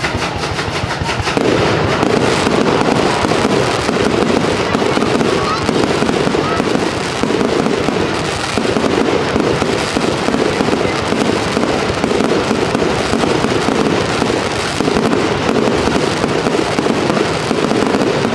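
Fireworks going off in a rapid, continuous barrage, the bursts packed so closely that they run together, growing denser and louder about a second and a half in.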